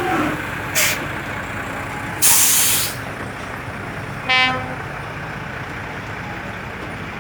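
Heavy vehicle engines running steadily in traffic, with two sharp bursts of air hiss, the second longer and louder, about one and two seconds in. A short horn toot sounds about four seconds in.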